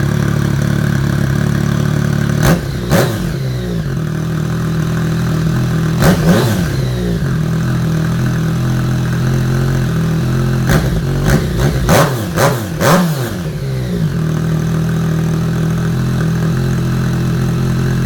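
Inline-three motorcycle engine with an aftermarket slip-on exhaust idling steadily, blipped on the throttle in quick revs that rise sharply and drop straight back to idle. There are two blips near the start, one about six seconds in, and a rapid run of about six between eleven and thirteen seconds.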